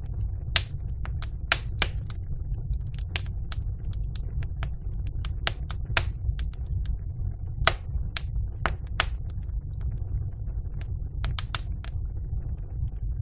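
Wood fire in a fireplace crackling: irregular sharp pops and snaps, a few of them louder, over a steady low rumble of the burning fire.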